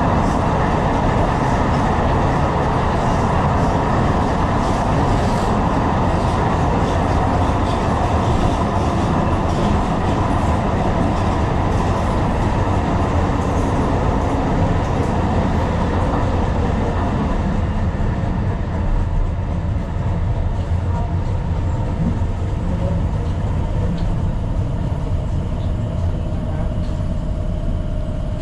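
Tyne and Wear Metro train running on the rails, a steady rumble of wheels and track heard on board. About two-thirds of the way through, the running noise turns duller and a little quieter.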